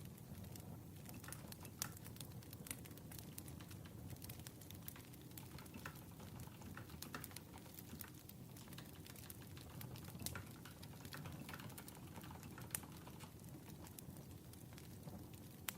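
Wood fire crackling: irregular sharp pops and snaps over a faint, steady low rumble.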